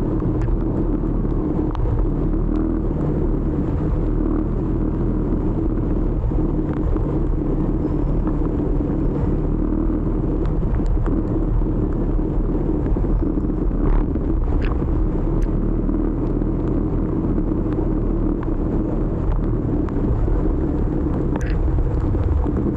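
Steady rumble of a motor scooter riding through city traffic, its small engine running under a continuous low noise, with a few faint clicks.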